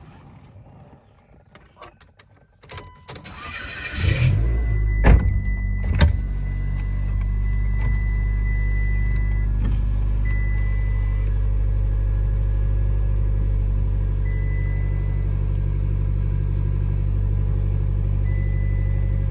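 A 2009 Mitsubishi Lancer's four-cylinder engine is cranked and catches about four seconds in, then settles into a steady idle, heard from inside the cabin. A few light clicks come before the start, two sharp knocks follow just after it catches, and a thin high tone comes and goes over the idle.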